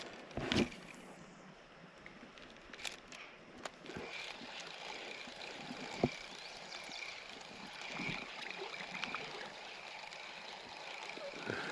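Small creek's water trickling and gurgling steadily, with a few scattered faint clicks and knocks.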